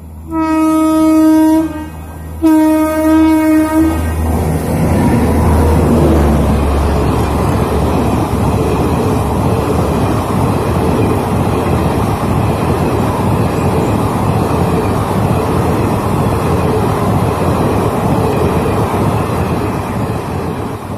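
Diesel train horn sounded twice, two blasts of about a second and a half each with a short gap between. Then the loud, steady rumble and clatter of passenger coaches running past close by at speed.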